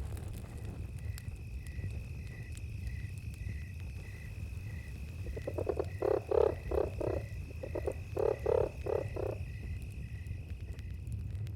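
A frog croaking in two loud bouts of rapid pulses, about six and eight seconds in, over a steady high cricket trill with evenly spaced chirps about every half second and a constant low rumble.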